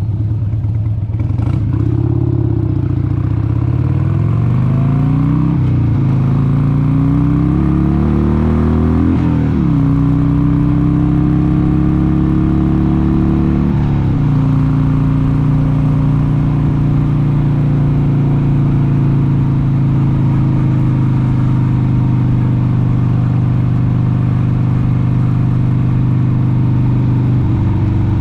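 1996 Harley-Davidson XLH883 Sportster's air-cooled 883 cc V-twin accelerating through the gears: the engine note rises and drops sharply three times as it shifts up, then runs steadily at cruising speed for the second half.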